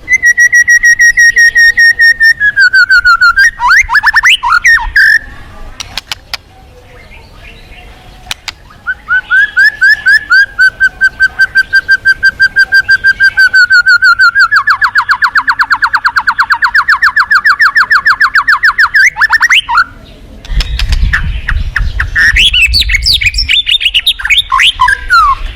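White-rumped shama singing in long, fast trills of repeated notes, each run holding a pitch, then dropping, then breaking into quick up-and-down phrases. A low rumble sits under the song near the end.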